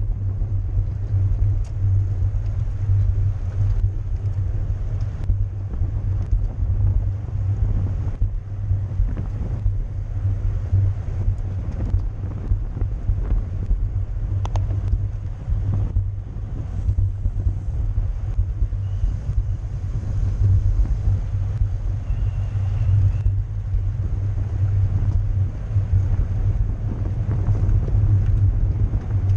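Wind rushing over the microphone of a camera on a racing bicycle, a steady low rumble from riding at speed.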